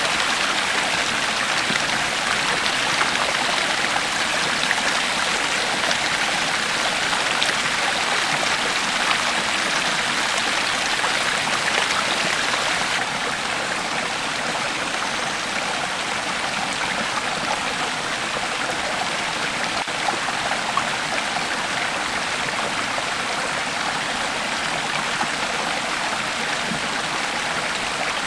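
A creek flowing steadily, an even wash of running water that drops slightly in level about halfway through.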